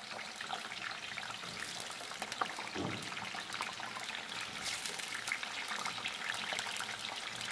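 Raw potato fries sizzling in hot oil in a shallow frying pan, a steady crackling fizz.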